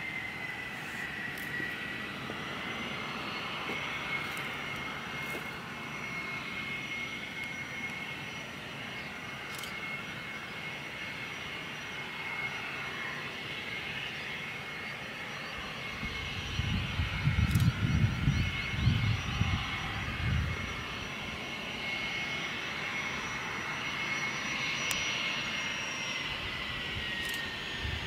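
Cessna 510 Citation Mustang's twin Pratt & Whitney PW615F turbofans running with a steady high whine, which dips briefly at the start and falls in pitch near the end. A bout of loud low rumble comes about two-thirds through.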